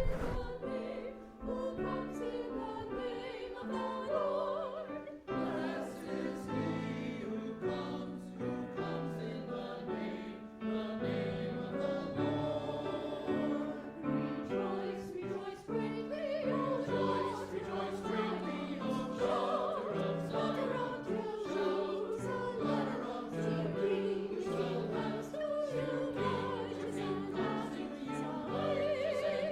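Church choir singing an anthem with instrumental accompaniment, the voices held on wavering, sustained notes over steady bass notes.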